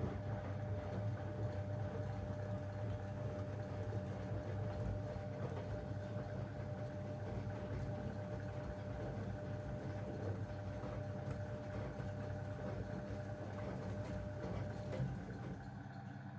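Zanussi washing machine's drum motor turning the drum in a 90 °C boil wash: a low hum with a thin steady whine, stopping abruptly about fifteen seconds in.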